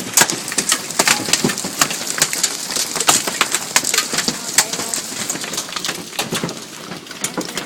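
Heavy hailstorm: a dense, irregular clatter of hailstones striking hard surfaces over a steady hiss of falling hail and rain.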